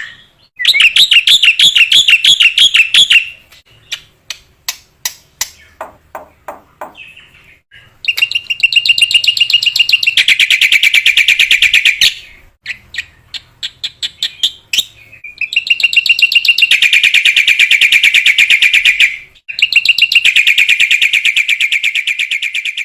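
Black-winged myna (jalak putih) singing loudly: long bursts of very fast repeated high notes, each lasting two to four seconds, broken by a run of sharp separate chips.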